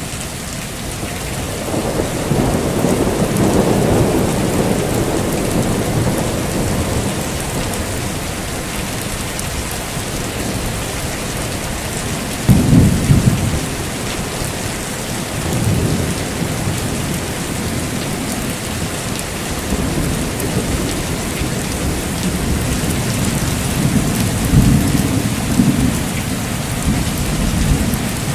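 Heavy rain falling steadily, with thunder rolling several times: a rumble building a couple of seconds in, a sharp close crack near the middle, and more rumbles near the end.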